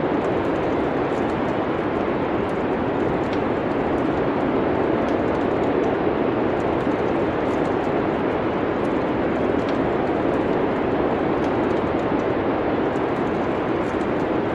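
Steady rushing winter wind, with faint, scattered crackles from a wood fire in a fireplace.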